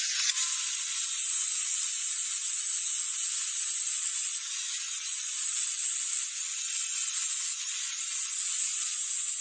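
Steady whirring hiss of a workshop power tool running continuously, with a faint high whine in it.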